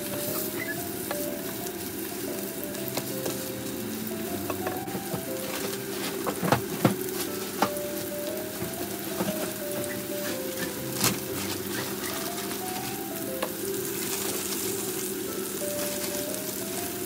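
Hamburger patties sizzling steadily as they fry in a nonstick frying pan, with a few sharp clicks around the middle.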